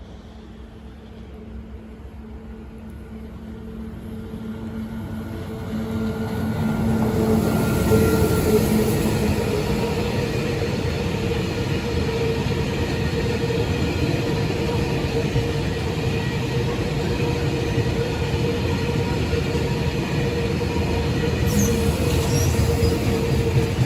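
A train approaching and passing, growing steadily louder over the first several seconds, then running loud with a steady whine and low rumble. A brief high squeal comes near the end.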